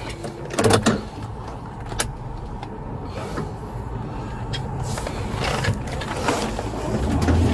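Car engine running steadily, heard from inside the car, with a few clicks and knocks and the sound swelling slightly near the end.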